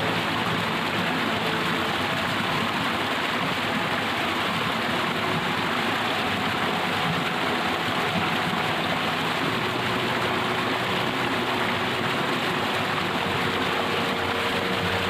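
Steady rush of running mountain water, an even hiss with no breaks.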